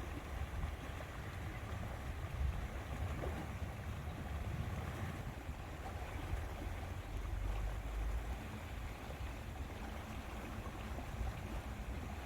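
Outdoor lakeside ambience: wind buffeting the microphone with a fluttering low rumble, over a steady wash of noise.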